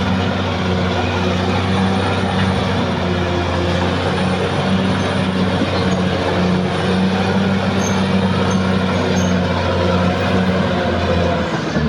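Caterpillar D6R XL bulldozer's diesel engine running steadily with a pulsing note; its note drops near the end.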